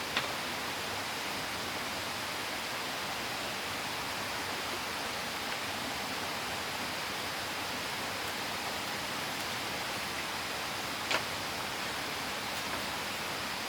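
Steady rush of a waterfall. Two short sharp clicks or taps cut through it, one at the very start and one near the end.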